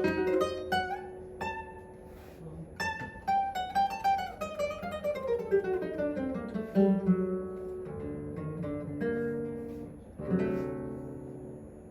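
Solo classical guitar playing: quickly repeated plucked notes in a line that falls steadily in pitch, then softer held notes and a fuller chord struck near the end.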